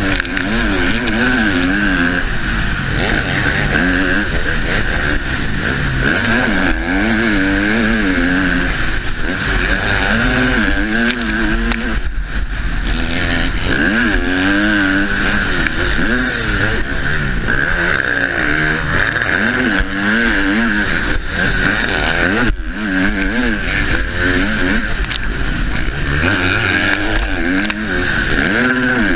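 Husqvarna motocross bike's engine racing hard, its pitch climbing and falling over and over as the rider opens and shuts the throttle through the gears, heard from the rider's helmet camera. It drops off sharply twice, around twelve and twenty-two seconds in, before picking up again.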